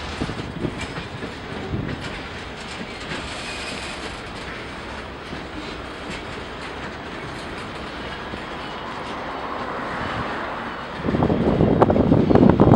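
Railroad cars rolling slowly along the track in a switching yard, a steady rumble of wheels on rail. About eleven seconds in, wind gusts hit the microphone loudly.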